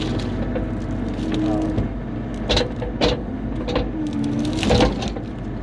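Bobcat E35 mini excavator's diesel engine running steadily, with several sharp knocks and clanks in the second half.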